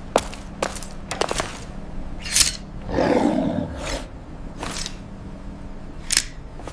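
Cartoon sound effects: a series of sharp clicks and quick high swishes, with a rough creature growl lasting about a second, starting about three seconds in.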